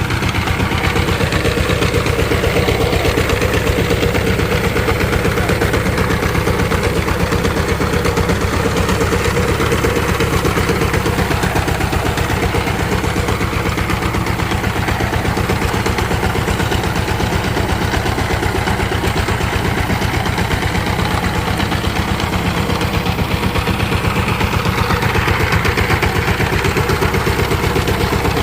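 Power tiller's diesel engine running steadily at idle, its firing pulses rapid and even.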